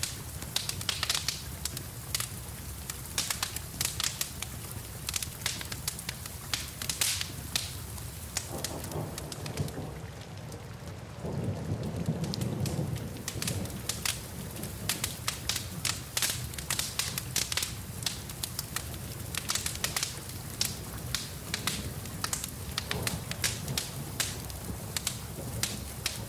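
Wood fire crackling and popping with sharp irregular snaps, over steady rain. A low rumble of thunder swells in about a third of the way through and fades a few seconds later.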